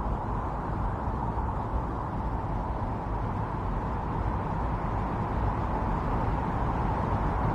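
Strong winter storm wind blowing steadily, an even low rushing noise that swells slightly near the end.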